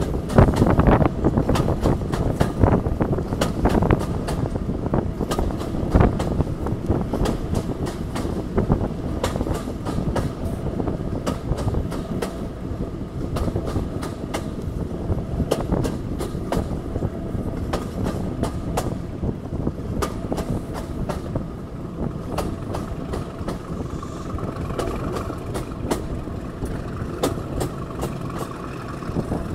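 Diesel-hauled train running at speed, heard from an open carriage window: the wheels click over the rail joints over a steady rumble of running noise, with the English Electric Class 37 locomotive D6700 working hard at the head of the train. A faint steady whine comes in about two-thirds of the way through.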